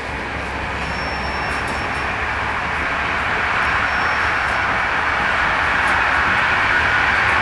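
Steady running noise of a moving passenger train heard inside a type 156A first-class coach, slowly growing louder, with a faint high whistle coming and going.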